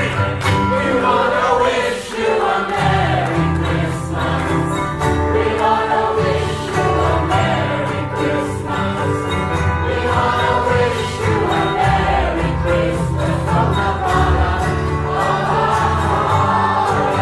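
A group of people singing a Christmas song together over instrumental accompaniment with a steady bass line.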